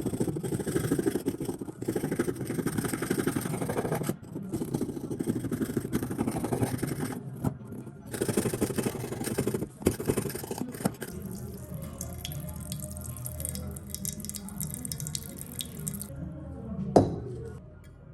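Rough scraping and scrubbing on the metal of rusty scissor blades in long stretches with short pauses, stopping near the end, followed by a single sharp click.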